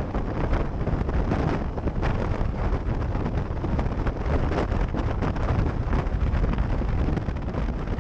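Wind buffeting the microphone, a loud, unsteady rumbling noise.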